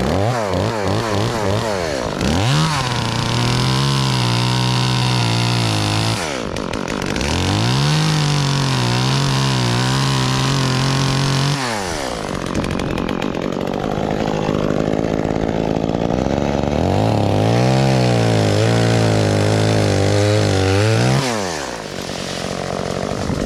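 Gas chainsaw engine revved up to high speed three times, each held for a few seconds and then dropping back, with a lower, wavering engine note between the runs.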